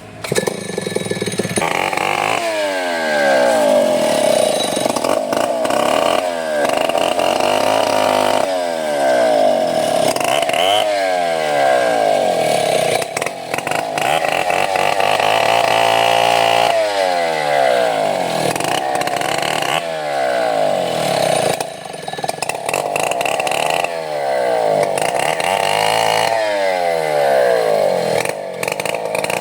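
Chainsaw running hard while cutting wood. It starts up loud about half a second in, then its pitch sweeps down and back up again and again, every few seconds.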